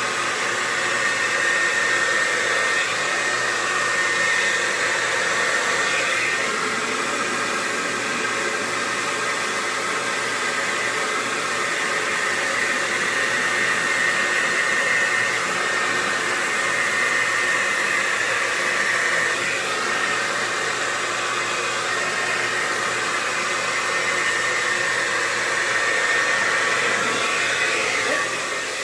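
Handheld hair dryer running steadily, blowing paint across a canvas in an acrylic-pour swipe, with a steady whine over the rush of air. The level drops off right at the end.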